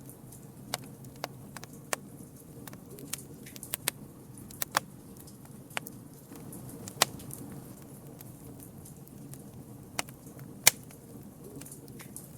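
Campfire burning with a steady low rush of flame and irregular sharp crackles and pops from the wood, the loudest pop a little before the end.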